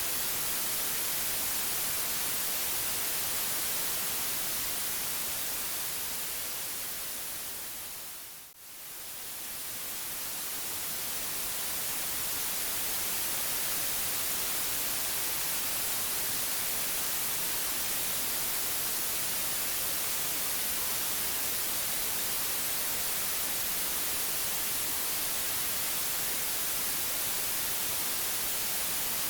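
Continuous white noise, an even hiss across the whole range. About eight seconds in it fades down smoothly and briefly, then swells back to the same steady level.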